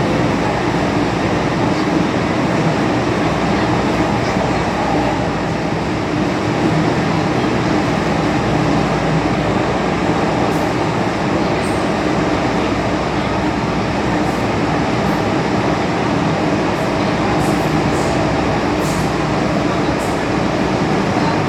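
An MTR M-Train electric multiple unit running on an underground line, heard from inside the carriage: a steady rumble and rush of running noise. A few faint, short high-pitched ticks or squeaks come in the second half.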